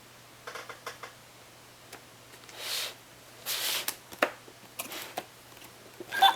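Plastic toy airplane being handled: scattered clicks and knocks and a few short rustling swishes. Near the end a loud pitched sound with falling sweeps starts, the toy's built-in sound effect beginning to play.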